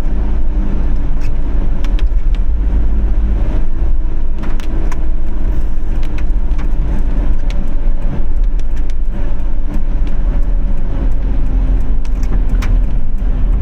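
Car driving in rain: a steady low road and engine rumble with scattered sharp ticks of raindrops.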